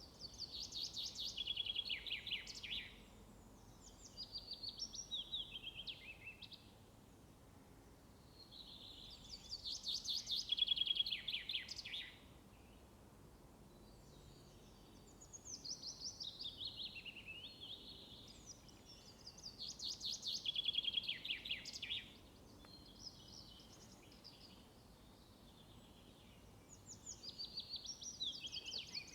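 A songbird singing in repeated phrases. Each phrase is a fast run of high notes lasting two to three seconds, and about six phrases come with short pauses between them. A faint steady background noise runs underneath.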